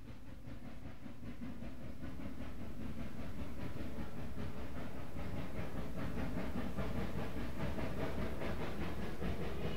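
Steam train running with a steady rhythmic beat. It swells up over the first few seconds and then holds at an even level.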